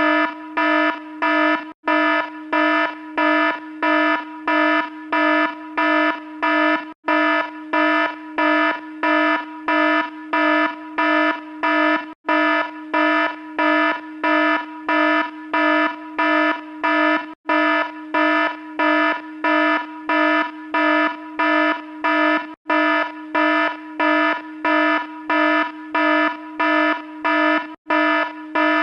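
Electronic alarm sound effect beeping rapidly, about three harsh buzzy beeps a second, as a short clip looped over and over with a brief gap roughly every five seconds.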